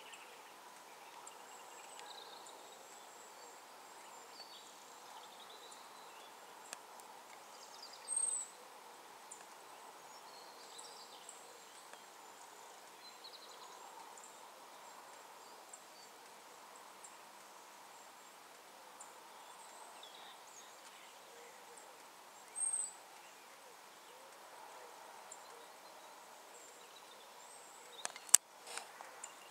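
Faint dawn countryside ambience: a low steady background with scattered faint bird chirps, and two short, very high-pitched bird calls about fourteen seconds apart. A sharp click sounds near the end.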